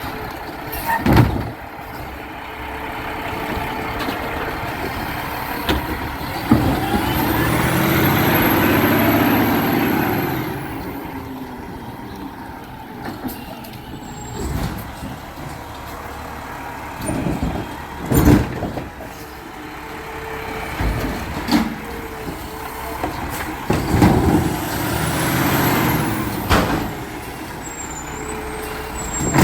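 Garbage truck at work: its engine runs and revs up twice, about seven and twenty-four seconds in, with high hissing that fits air brakes. Several sharp bangs ring out, the loudest about a second in and about eighteen seconds in.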